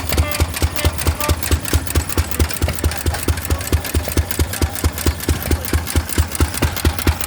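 Antique hit-and-miss gas engine running, a rapid, even clatter of sharp clicks over strong, regular low beats in a steady rhythm.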